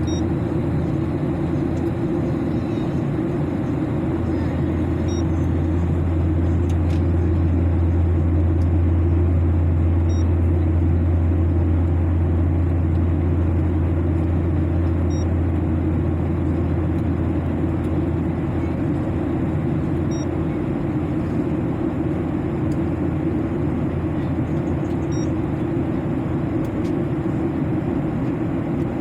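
Steady airliner cabin noise during the climb: a continuous low drone of the engines and rushing air, swelling slightly about a third of the way in. A faint short high pip repeats about every five seconds.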